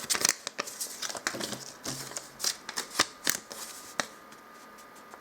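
Plastic toy packaging crinkling and hard plastic toy parts clicking together as they are unwrapped and handled, in irregular crackles and clicks.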